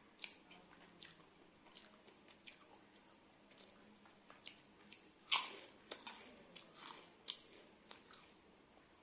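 Close-miked chewing of a mouthful of rice and curry: short wet mouth clicks and smacks, one or two a second, with one louder crunchy bite about five seconds in.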